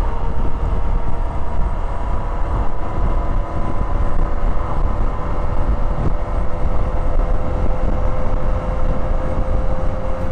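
Yamaha XJ6N motorcycle's inline-four engine running at a steady cruise, its hum creeping slightly up in pitch, under heavy wind rush on the microphone while riding.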